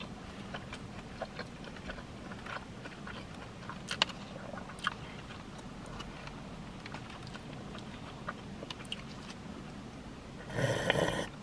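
Close-up chewing and mouth noises, with scattered small wet clicks. Near the end comes a louder, noisy slurp as a drink is sipped from a cup.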